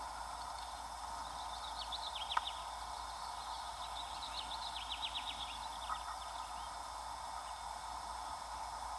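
Small birds chirping in two short runs of quick, high, falling notes, over a steady hiss, with a single click about two and a half seconds in.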